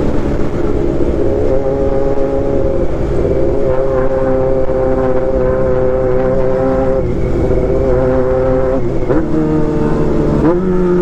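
A 1995 Honda CB400 Super Four's four-cylinder four-stroke engine running under way at fairly steady revs, heard from the bike itself. The pitch changes briefly a few times, and the revs swing sharply twice near the end.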